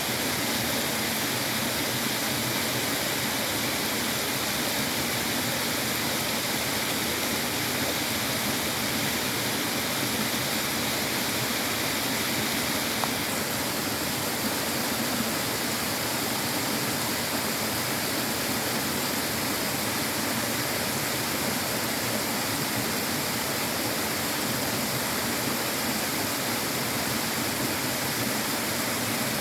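Running water flowing steadily, an even hiss-like wash of sound with no breaks or changes.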